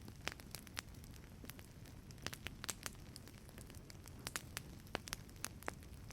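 Wood fire in a fireplace crackling: irregular sharp pops and snaps, several a second, over a low steady rumble of burning.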